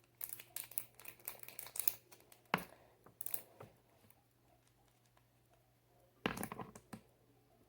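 Hands handling a small fidget toy: a run of small clicks and crinkling, a sharper knock about two and a half seconds in, a quiet pause, then a short burst of crackling near the end.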